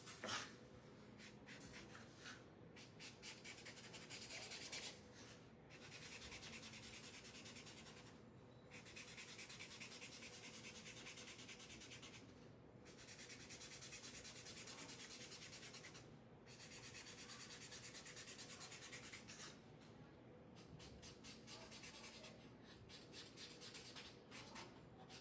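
Paint marker tip rubbing across a craft piece as an area is coloured in: a faint scratchy hiss in long strokes of a few seconds each, with short pauses between them.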